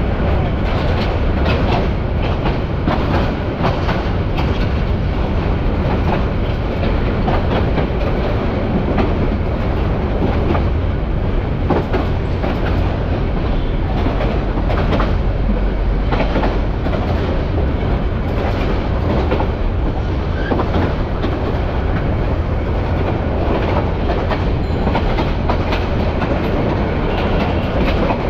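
Bangladesh Railway's Agnibina Express running along the line, heard from inside the carriage at the window. A steady loud rumble and rattle runs throughout, with frequent clicks of the wheels over the rail joints.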